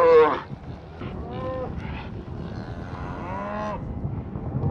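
Cattle mooing: a loud bawl cuts off just after the start, then about three fainter, drawn-out moos from the herd over a low steady rumble.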